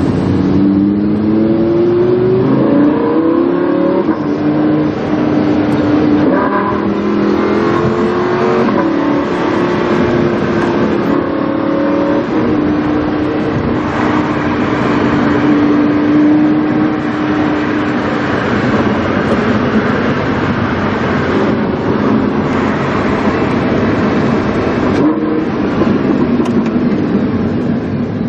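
Lamborghini Huracán's V10 with a PowerCraft aftermarket exhaust, heard from inside the car: the engine pulls up in rising sweeps over the first few seconds, then settles into a steady drone at cruise, with road noise throughout.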